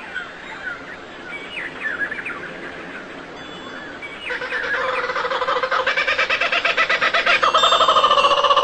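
Birds chirping with short quick notes. About four seconds in, a much louder call starts: a rapidly pulsing, steady-pitched call that grows louder to the end.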